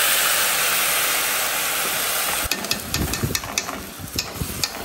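Miso, sugar and water sauce poured into a pot of eggplant slices frying in hot oil, hissing and sizzling loudly. About two and a half seconds in the hiss eases and metal spoons scrape and clink against the pot as the eggplant is stirred.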